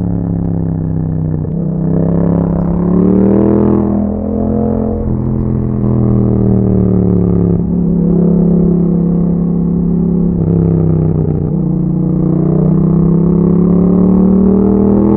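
2021 Yamaha MT-07's 689 cc parallel-twin engine running through an Akrapovic exhaust under riding: the revs climb and drop several times, with short breaks in the note at gear changes.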